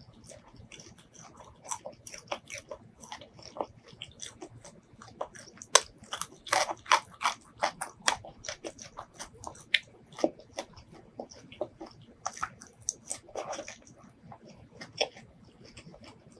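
Close-miked chewing of crispy fried fish: irregular crunches and wet mouth clicks, densest in a burst about six seconds in and again near twelve seconds.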